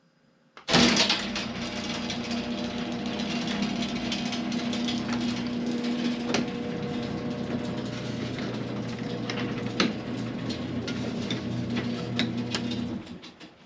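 A motor or engine running steadily with a constant-pitched hum and scattered clicks. It starts suddenly about a second in and dies away shortly before the end.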